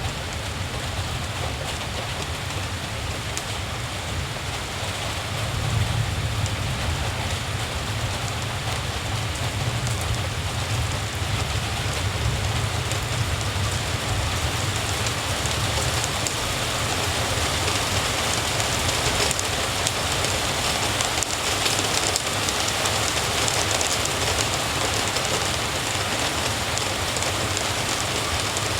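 Steady heavy rain, an even hiss of falling drops, with a low rumble that swells and fades underneath.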